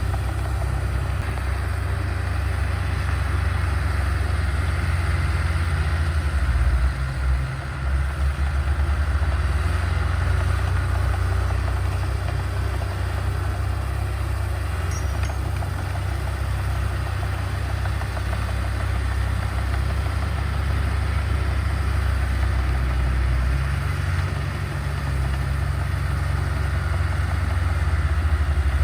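Heavy diesel earthmoving machinery running steadily with a deep engine rumble, changing briefly about a quarter of the way in and again near the end as the engine's load shifts.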